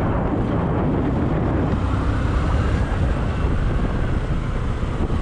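Honda CB Shine's single-cylinder four-stroke engine running steadily while the motorcycle is ridden, mixed with wind rushing over the microphone.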